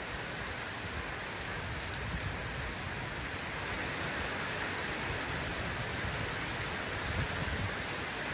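Heavy rain pouring down steadily: a dense, even hiss of rainfall.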